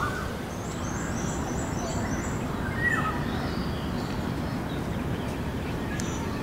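Birds calling over a steady background noise, with a quick run of about seven short, high chirps between about half a second and two seconds in, then scattered shorter calls.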